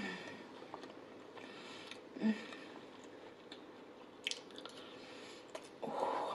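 A person chewing a mouthful of food close to the microphone, with soft wet mouth sounds and a few small clicks.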